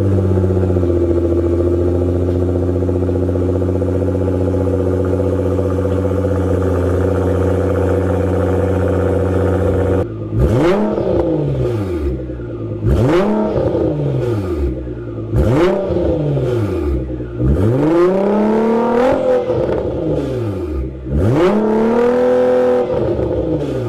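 Nissan R35 GT-R's twin-turbo V6 through an Fi aftermarket exhaust, just cold-started: a loud, steady fast idle for about ten seconds, then a series of throttle blips, the pitch rising and falling roughly every two seconds.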